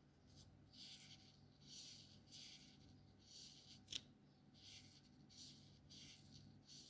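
Felt tip of an alcohol marker stroking across paper in repeated short, soft scratchy strokes, with one sharp click about four seconds in.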